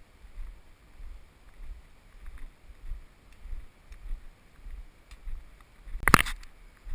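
Footsteps of a person walking along a trail, a steady rhythm of low thuds, with one loud brief crunch about six seconds in.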